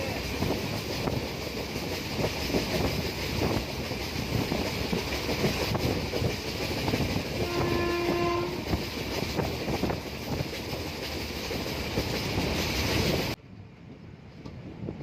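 Indian Railways express passenger train running at speed, heard from an open coach doorway: a steady rush of wheels on rail and wind. About eight seconds in, a train horn sounds for about a second. Near the end the sound drops suddenly to a much quieter rolling rumble.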